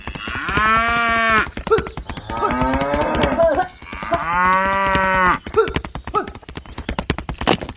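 Cattle mooing: two long moos with a shorter, wavering one between them, over a constant crackle of short clicks.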